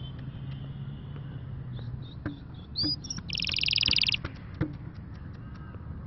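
Caged bird calling: a few short, high chirps, then a rapid trill about a second long in the middle, followed by a couple more chirps.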